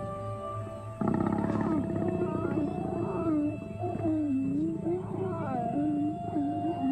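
Lions growling in a run of wavering, drawn-out calls that start suddenly about a second in, the kind of growling heard when lions mate.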